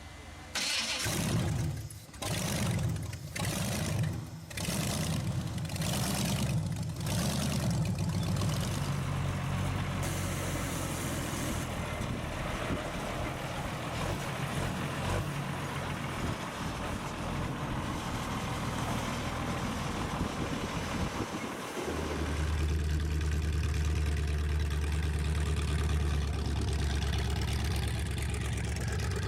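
Loud rat rod engine blipped hard about six or seven times in quick succession, then running steadily. Near the end it gives way abruptly to another engine idling with a deeper, steady drone.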